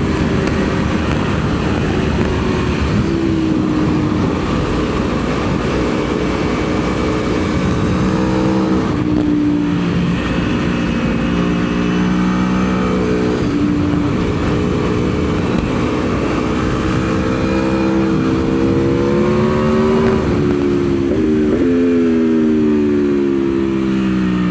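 Aprilia Tuono V4's V4 engine pulling hard on track under wind noise. Its note steps down and climbs again several times through the gears, rises steadily for several seconds, then drops with a couple of quick blips near the end as the bike slows.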